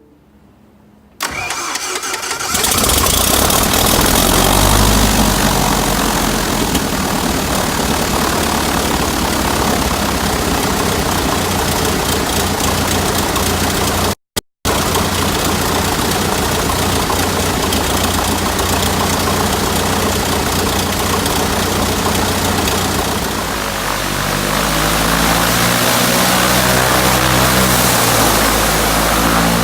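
An RV-14's Lycoming IO-390 four-cylinder aircraft engine starting about a second in, cranking briefly before it catches, then running steadily with its propeller on its first engine run. The sound cuts out for a moment near the middle and its low tones shift near the end.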